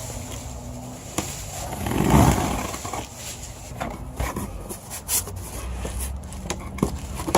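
Cardboard shipping box being handled and opened: scraping and rustling, loudest about two seconds in, with scattered small knocks and clicks.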